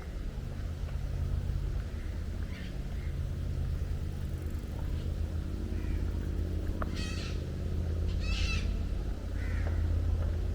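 Two harsh bird calls about a second and a half apart, roughly seven seconds in, with a few fainter calls around them, over a steady low machine hum.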